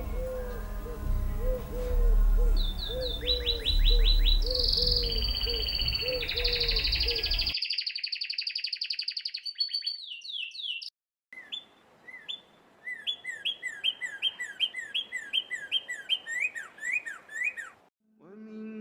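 Birdsong recordings cut one after another. First comes a series of chirps and trills over a low rumble and a repeated low note. After a sudden cut and a brief gap, a bird repeats short downward-slurred whistled notes, several a second.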